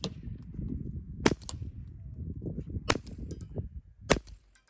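Three suppressed .22 LR pistol shots from a Ruger Mark IV 22/45 fitted with a Little Spoon silencer, spaced about a second and a half apart. They are firing Aguila Sniper Subsonic 60-grain rounds, which are a little louder than CCI Quiet ammunition.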